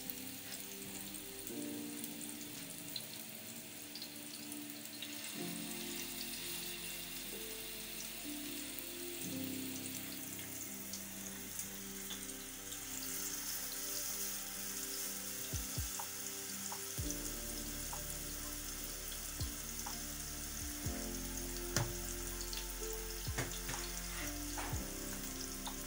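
Minced-meat kebab patties sizzling in oil in a non-stick pan over medium heat, a steady hiss with a few sharp taps in the second half. Electronic background music plays underneath.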